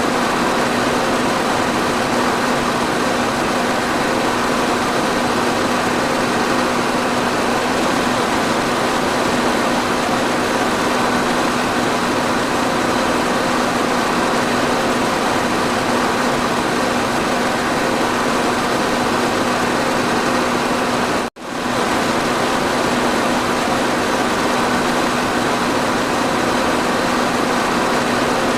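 Electric fan running steadily: an even rush of moving air with a steady motor hum underneath. About 21 seconds in the sound cuts out for a split second and comes straight back.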